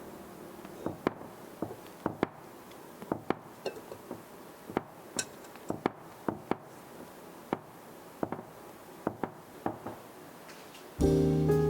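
Irregular clinks and knocks of dishes, glass and utensils being handled during cooking, some twenty separate light strikes. Soft music with guitar and piano comes in near the end.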